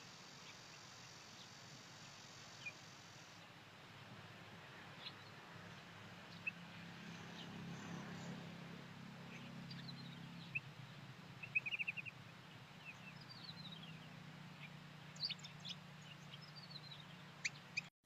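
Small wild birds calling faintly: scattered short chirps, with a quick run of several notes about two-thirds of the way through, over a faint low hum.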